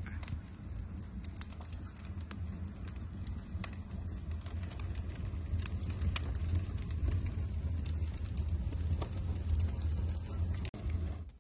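Wood fire burning, with frequent sharp crackles over a low, steady rumble.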